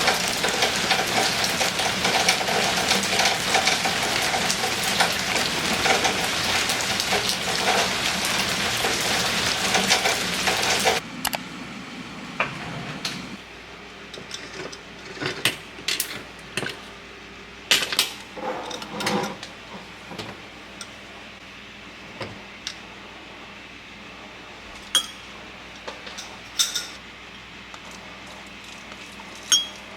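Steady rain falling for about the first eleven seconds, cutting off suddenly. A quieter stretch follows with scattered light clinks and knocks of dishes and utensils being handled.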